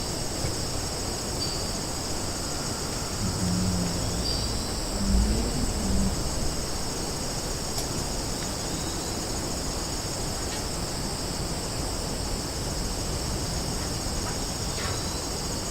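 Summer forest ambience: a steady, high-pitched chorus of insects, with a few short bird chirps and a brief low sound a few seconds in.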